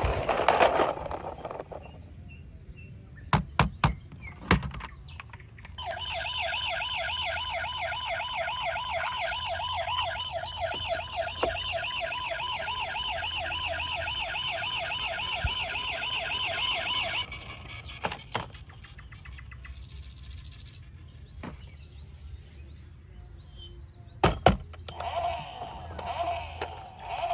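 Toy siren from a battery-powered toy vehicle, a rapidly warbling electronic tone that runs for about eleven seconds and cuts off suddenly. A few sharp plastic clicks come before it and after it.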